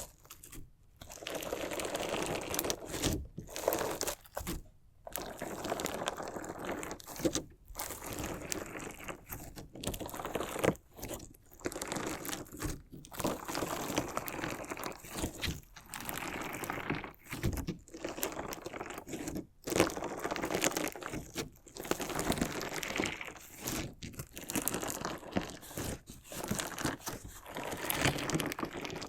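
Crunchy slime jelly worked together with small decorative stones, being cut, pressed and ground: dense crunching and crackling in bursts, broken every second or two by brief pauses.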